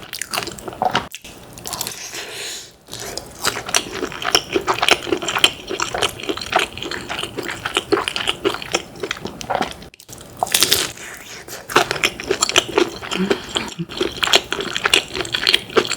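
Close-miked chewing and crunching of crispy fried chicken: a dense run of crisp crackles and mouth sounds, with a louder burst of crunching about ten and a half seconds in.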